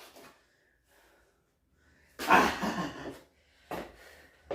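A man breathing hard during heavy deadlift reps: one loud, forceful exhale about two seconds in, then two short sharp breaths near the end.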